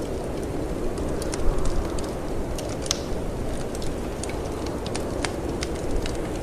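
Wood fire in a fireplace crackling, with irregular sharp pops and snaps, over a steady low rush of storm wind.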